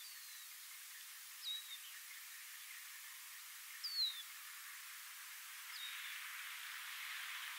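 A bird giving short, thin, high whistled call notes, four in all, the loudest about four seconds in, over a faint hiss that grows louder near the end.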